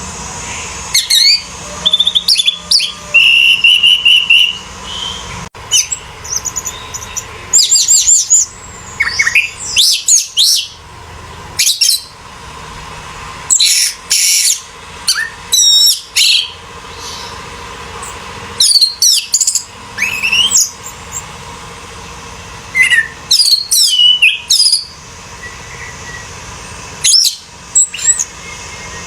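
Orange-headed thrush singing: loud phrases of quick, varied whistled and chattering notes, each lasting one to three seconds and separated by short pauses, with one steady trill about four seconds in. A faint steady hum sits under the song.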